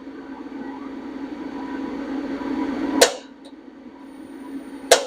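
Heatstar 38,000 BTU propane forced-air heater running, its fan giving a steady hum that grows louder over the first three seconds. Two sharp clicks, one about three seconds in and one near the end.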